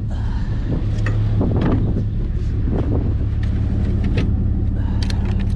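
A vehicle engine running steadily as a low hum, with scattered knocks and clatters.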